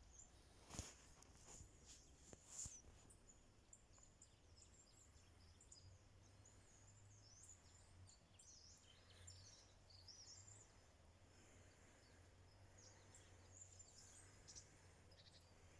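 Near silence: faint high bird chirps scattered throughout, with two or three soft clicks in the first few seconds.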